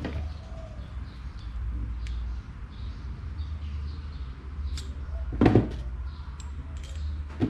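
Scattered clicks and knocks of small fan parts being handled on a workbench, with one louder knock about five and a half seconds in, over a low steady hum.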